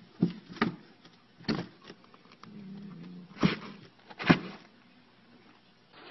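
A cat swatting inside a cardboard box: a few irregular, sharp knocks and scuffs of paws against the cardboard.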